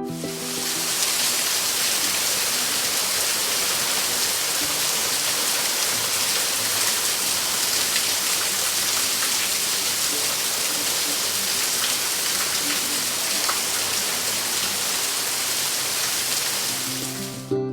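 Steady rain, a dense even hiss that fades in at the start and fades out near the end.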